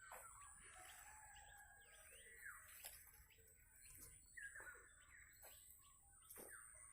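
Faint birdsong: small birds calling with short falling chirps that repeat every second or so, over a thin steady high tone.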